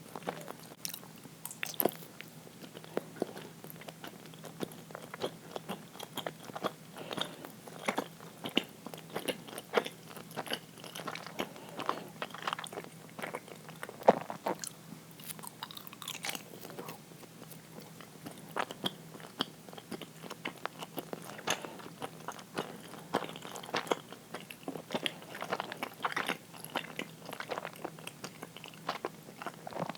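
A person chewing uiro, a sweet rice jelly, close to the microphone: irregular mouth clicks and bites, with one louder click about halfway through.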